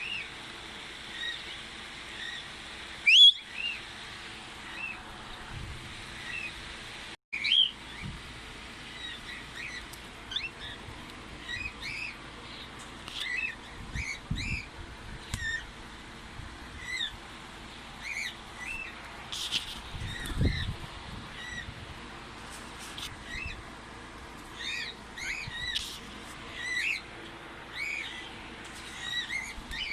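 Bird chirping: many short, separate chirps, irregularly spaced, with one louder sound about three seconds in.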